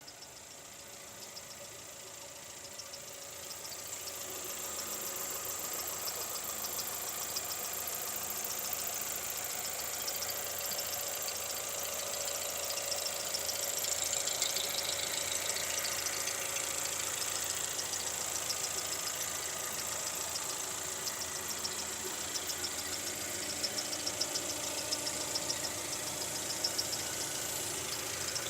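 Lada Vesta's VAZ-21129 1.6-litre sixteen-valve engine running steadily with a rapid, even knock, a fault the owner is trying to trace. It grows louder over the first few seconds, then holds steady.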